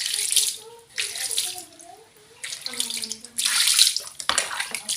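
Water running or splashing in several short gushes, each about half a second long, with faint voices in the background.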